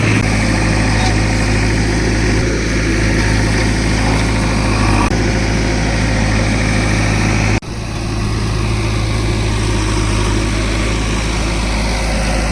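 Heavy diesel engine running steadily with a deep, even hum, cut off for an instant about seven and a half seconds in, then running on.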